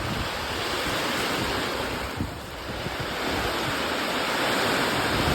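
Heavy rain pouring down in a sudden downpour: a steady, loud hiss of water that eases briefly a little after two seconds in.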